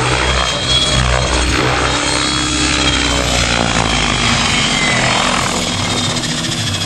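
Electric radio-controlled model helicopter flying with its main rotor at high head speed, a steady rotor hum under a high motor and tail-rotor whine. The low hum fades near the end.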